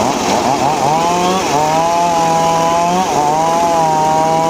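Two-stroke chainsaw running at high revs while cutting teak. The pitch wavers at first, then holds high with brief dips about one and a half and three seconds in, where the chain bogs under load before speeding up again.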